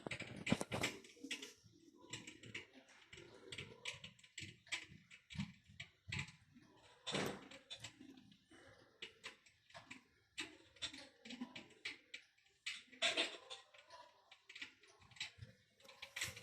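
Electric fireplace's crackling-log sound effect: irregular clicks and pops at an uneven pace, with soft low thumps between them.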